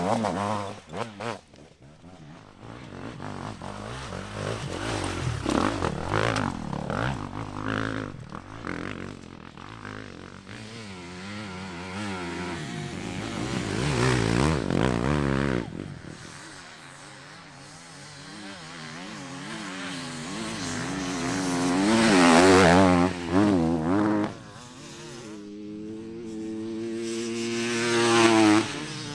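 Dirt bike engine revving up and down on rough ground, its pitch wavering constantly with the throttle. It swells loud three times, the last near the end, then drops away.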